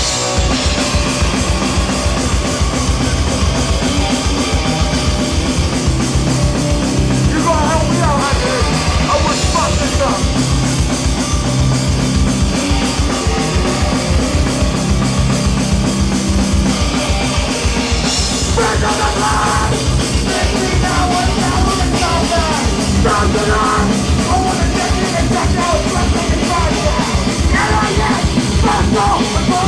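Hardcore band playing live at full volume: distorted guitars and bass holding low riffs over fast, pounding drums. Shouted vocals come in around 7 seconds and again through the second half.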